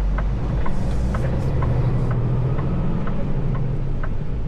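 Tractor-trailer cab interior while driving: a steady low engine and road hum, with a regular ticking about twice a second.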